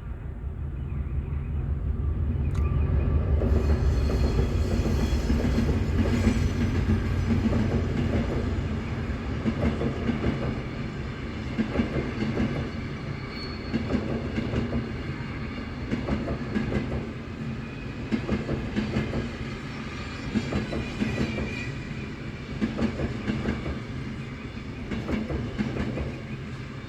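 Train running through a railway crossing: a heavy rumble builds over the first few seconds and stays loudest for several seconds. After that the wheels clatter over the rail joints in repeating groups, about every two seconds.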